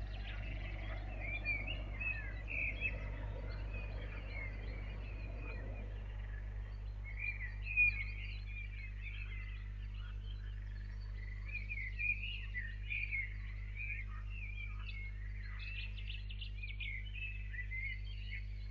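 Several small birds chirping and twittering in short, overlapping calls, over a steady low hum. A faint rushing noise underneath stops about six seconds in.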